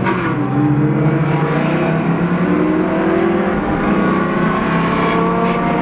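Twin-turbo American muscle car's engine revving, its pitch climbing and dropping several times.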